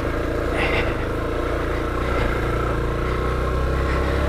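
Honda XR250L's single-cylinder four-stroke engine running steadily as the dual-sport bike is ridden along a dirt trail.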